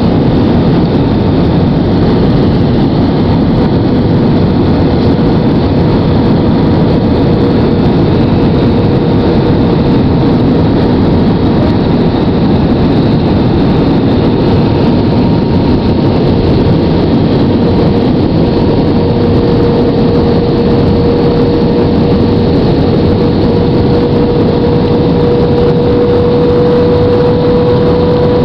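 Airbus airliner's jet engines and rushing air heard from inside the passenger cabin: a loud, steady roar with a steady hum, which grows stronger about two-thirds of the way through.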